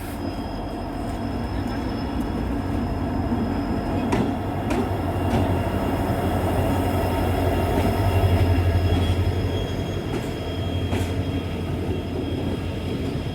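Passenger train running on the rails: a steady low rumble that swells to its loudest a little past the middle. Thin, steady high-pitched squeals ride over it, and there are a few sharp clicks.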